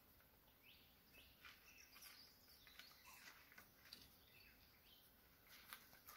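Near silence: faint bird chirps and a few faint clicks.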